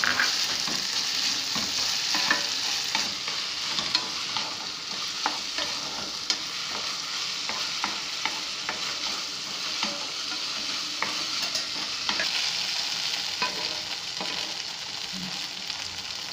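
Sago pearls sizzling as they fry in oil in a non-stick kadai, stirred with a wooden spatula that scrapes and ticks against the pan again and again. They are being dry-fried until their soaking moisture is gone.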